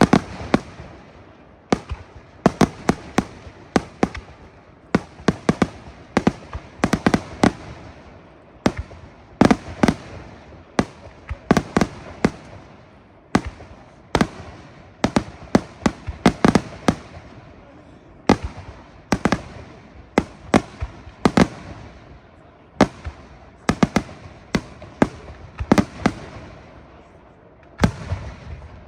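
Aerial fireworks display: a rapid series of shell bursts, sharp bangs often coming in quick clusters, each with a short rumbling echo.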